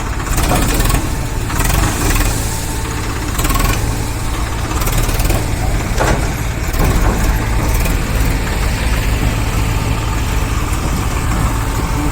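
Heavy diesel engine running steadily at a low pace, with several short clattering knocks over it.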